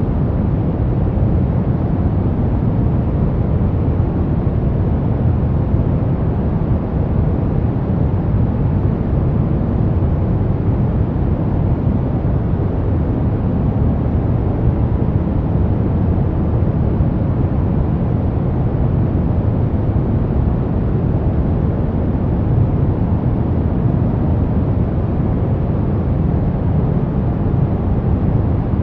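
Continuous brown noise: a steady, even rumble-like hiss weighted heavily toward the low end, with no change in level or character.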